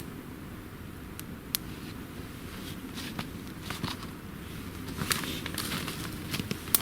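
Campfire crackling, with scattered sharp pops over a low steady hiss; the pops come thicker near the end.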